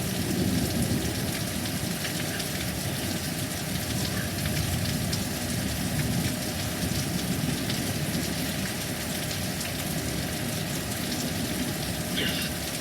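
Heavy thunderstorm rain pouring steadily, with a low rumble underneath it.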